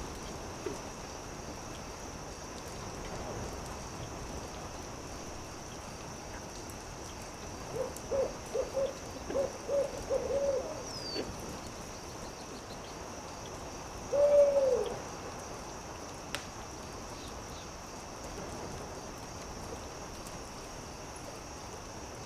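An owl hooting: a quick run of about eight short hoots, then a few seconds later one longer hoot that falls in pitch. Behind it, the faint scattered crackle of a campfire and a steady high hiss.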